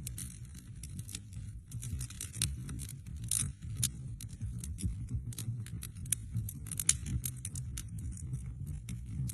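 Wood fire burning in a fireplace: many sharp, irregular crackles and pops over a low, steady rumble of the flames.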